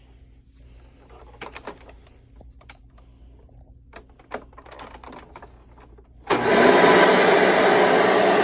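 Scattered small clicks and knocks of handling, then about six seconds in a Hoover Commercial Hard Bag Elite upright vacuum cleaner is switched on and its motor runs loudly and steadily.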